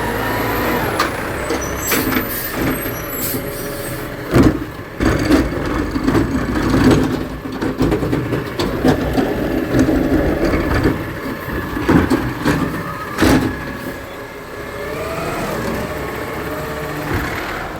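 Garbage truck working: its engine runs with a steady whine, and a series of loud bangs and clatter comes through the middle.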